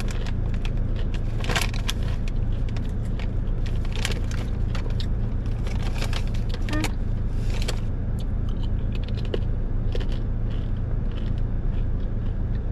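Close crunching and chewing of kettle-cooked plantain chips, with scattered crinkles of the chip bag. A steady low hum runs under it inside the parked car.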